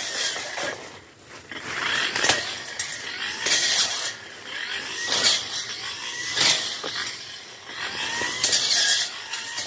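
Tanzu brush cutter's engine revving up and easing off again and again as it cuts through brush and scrub, with sharp hits as the cutting head strikes vegetation.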